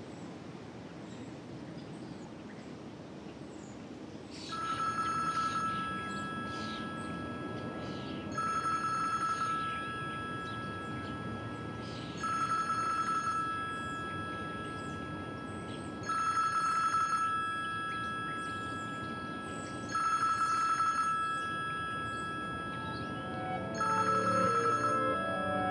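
Mobile phone ringing: a ring of just over a second, repeated about every four seconds, six times, starting a few seconds in. Music comes in near the end.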